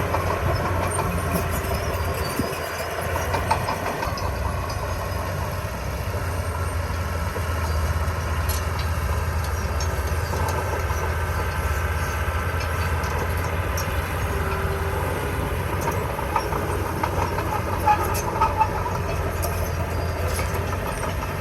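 Heavy diesel construction machinery running: a steady low engine drone, with a few sharp metallic clanks.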